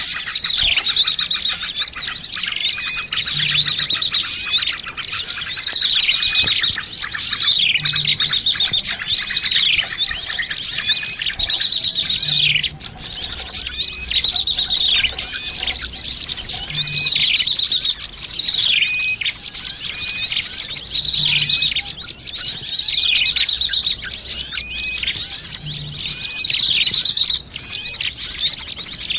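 A dense, busy chorus of many small birds chirping and twittering, with fast trills and quick down-sweeping calls overlapping without a break. It is a bird-lure recording, used to draw small birds in, and the pattern repeats about every four and a half seconds in a loop.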